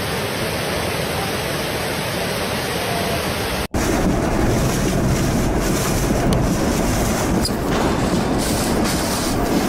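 Typhoon wind storm noise: a steady rushing with heavy wind buffeting the microphone. There is a sudden cut a little under four seconds in, after which it is louder and rougher.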